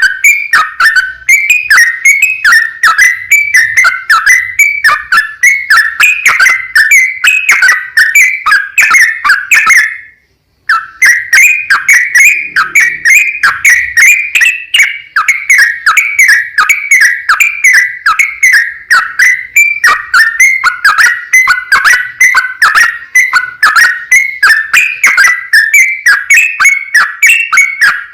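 Yellow-vented bulbul (trucukan) singing a long, rapid run of bubbly whistled notes, several a second, with one brief break about ten seconds in.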